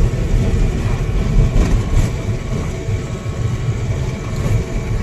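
Steady low rumble of a moving vehicle running.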